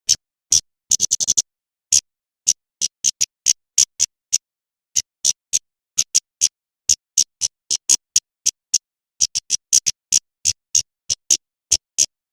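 Female kemade bird calling: short, sharp, high-pitched chips at an irregular pace, with a rapid run of about five about a second in. This is the call used to lure male kemade.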